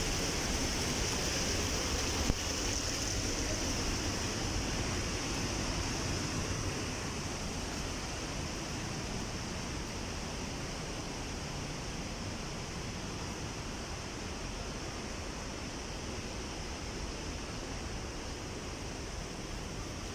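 Rushing water of a waterfall: a steady hiss that grows a little quieter after about seven seconds. A single sharp knock about two seconds in.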